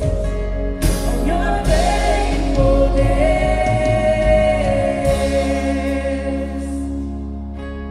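Live worship band with singers: voices over keys, guitars, bass and drums, easing down and getting quieter toward the end.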